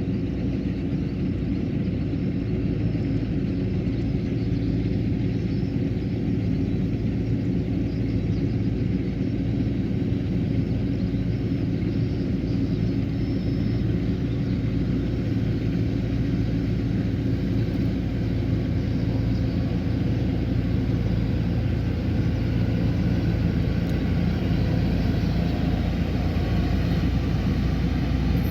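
Kubota combine harvester running steadily in the field: a constant low engine hum with no change in pitch.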